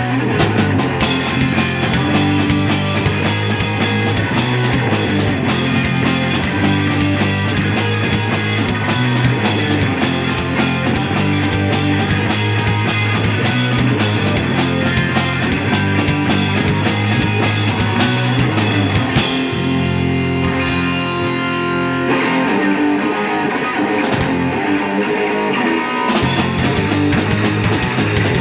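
Rock band playing live without vocals: electric guitar, bass and drum kit. About twenty seconds in, the cymbals and drums drop away, leaving guitar and bass, and the full band comes back in near the end.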